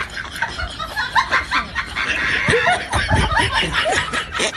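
Laughter, in short choppy bursts with pitch swoops, loudest about three seconds in.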